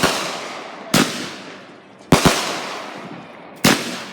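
Consumer fireworks going off: about five sharp bangs roughly a second apart, two of them close together, each trailing off in a long echo.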